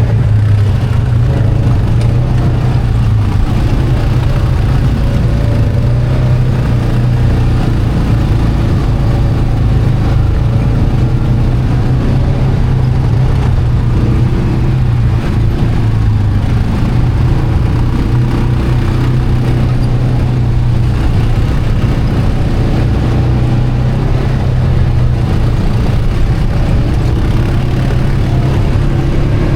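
ATV engine running while riding a trail, its revs rising and falling a little.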